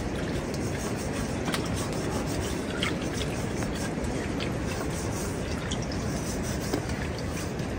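Steady rain falling, with scattered drips ticking throughout.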